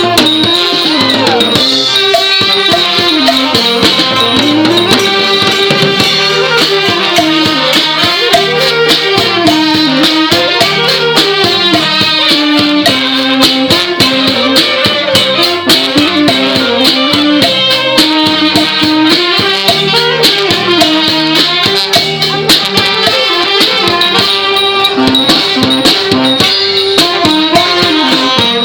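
Thai brass band (trae wong) playing a continuous melody on wind instruments over steady, busy drum and rattling percussion.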